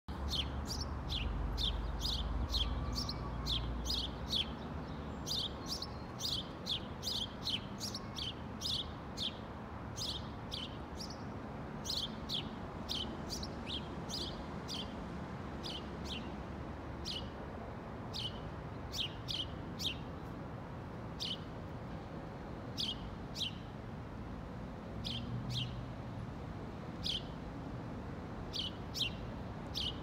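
A small songbird calling with short, high chirps, each dropping in pitch, repeated about one or two a second, sometimes in quick pairs. A steady low rumble sits underneath, stronger in the first few seconds.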